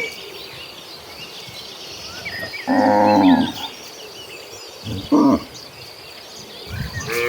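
Cattle mooing: a loud moo about three seconds in, a short one a couple of seconds later, and another starting near the end. Small birds chirp throughout.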